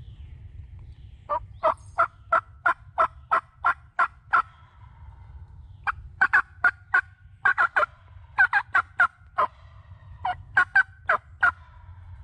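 Wild turkey yelping: four runs of sharp, evenly spaced notes, about three a second, beginning about a second in. A steady low rumble lies underneath.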